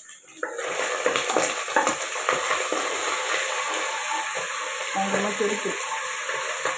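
Ginger-garlic paste frying in hot oil in a pot, stirred with a wooden spoon. It starts suddenly as a loud sizzle about half a second in and carries on as a steady spattering sizzle.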